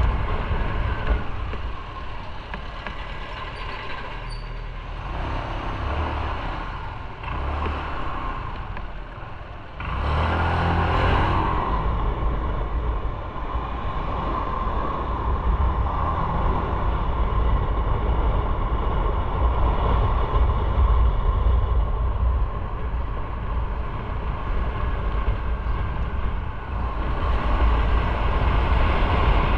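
Motorcycle on the move: engine rumble mixed with wind rushing over the microphone. It is quieter for the first several seconds and gets louder again about ten seconds in.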